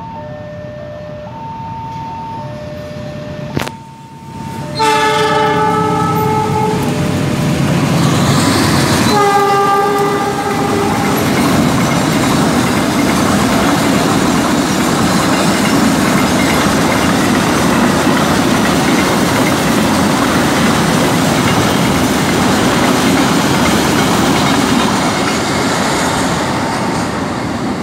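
A level-crossing warning signal sounds an alternating two-note tone. About five seconds in, the locomotive of a fuel tank train gives two long horn blasts a few seconds apart, then the tank wagons run past with loud, steady wheel-on-rail noise.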